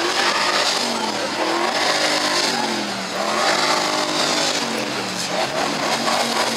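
Several Ford Mustang V8 engines revved together, their pitch climbing and falling again and again in overlapping revs.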